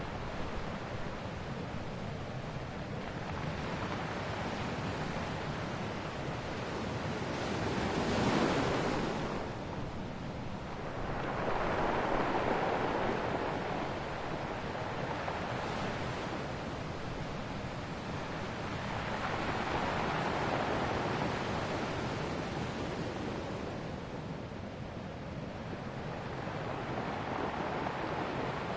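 Ocean waves breaking on a shore, a steady wash of surf that swells every several seconds, the biggest rise about a third of the way in.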